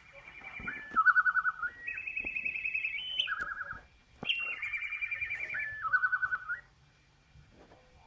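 Sagem my411X mobile phone playing a ringtone through its small loudspeaker: fast-trilling electronic tones that step up and down between a few pitches, in two similar phrases with a short break between them.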